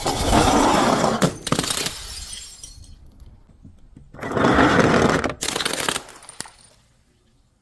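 Glass bottles breaking and shattering: two bursts of crunching, crackling glass about four seconds apart, each trailing off into smaller crackles.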